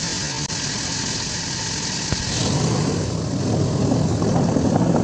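Excavator diesel engine running. It becomes louder and heavier about two seconds in, over a steady hiss at the start.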